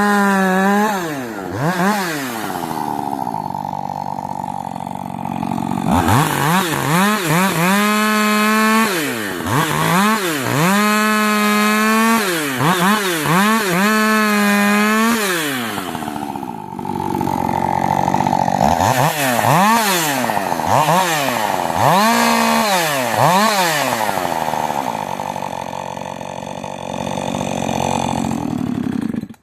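Rebuilt Husqvarna 562 chainsaw's two-stroke engine revved hard to a high whine and let fall back, over and over. There are stretches of steadier, lower running that sound like the saw working in wood. The engine sound stops abruptly at the very end.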